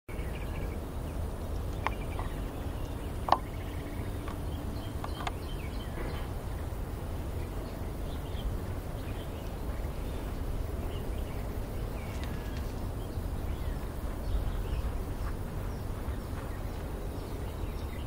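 Outdoor ambience with a steady low rumble and scattered short, faint bird chirps, plus a few sharp clicks, the loudest about three seconds in.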